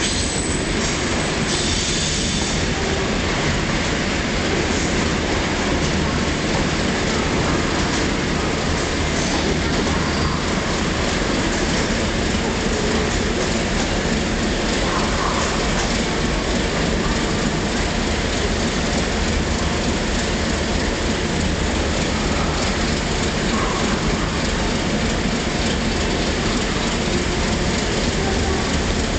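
Coaches of a departing long-distance passenger train rolling past on the rails, with a steady rumble of wheel noise.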